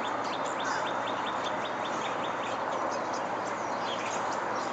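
A small songbird gives a rapid series of short, high chirps, about five a second, that trail off into scattered chirps after a couple of seconds, over a steady background hiss.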